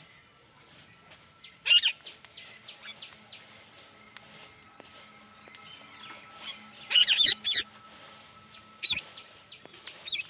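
Parrot calling with sharp, high squawks: one about two seconds in, a quick run of several around the middle, and two more near the end, over softer chirping.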